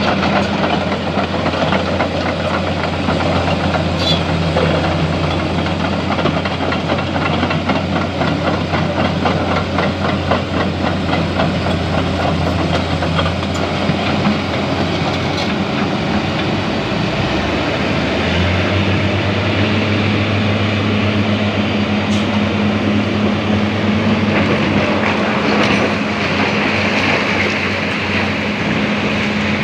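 Heavy diesel machinery at work: an excavator and dump truck engine running steadily under a dense mechanical clatter. About two-thirds of the way through, the engine note steps up to a higher speed.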